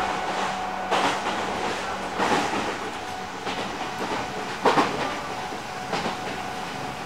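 Running sound aboard an Odakyu 8000 series electric train's motor car with fully enclosed traction motors: wheels clacking over rail joints about every second and a quarter over steady running noise and a faint hum. One clack, a little past the middle, is the loudest.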